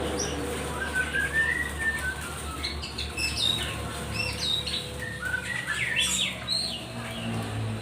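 Several small birds chirping, with many short rising and falling chirps overlapping one another.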